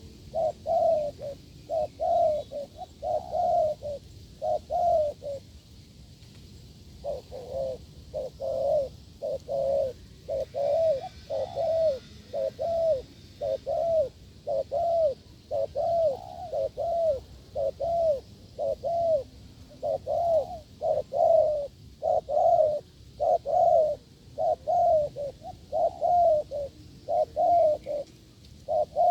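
Spotted doves cooing hard: a long run of short, arched coos, about two a second, broken by one pause of a couple of seconds.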